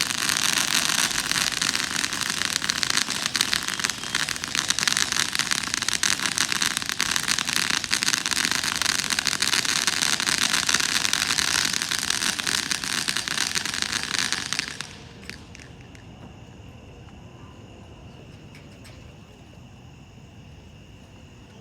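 A ground firework fountain, 'Spurts of Color', burns with a dense, steady hiss and crackle for about fifteen seconds, then cuts off suddenly. A faint steady high tone is left in the background.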